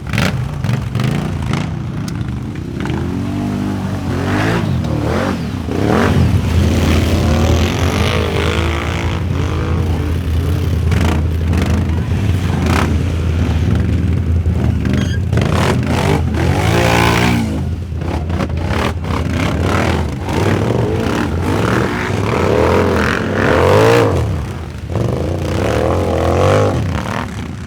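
4x4 ATV engines revving hard, the pitch climbing and dropping again and again as the throttle is worked, with scattered knocks and scrapes.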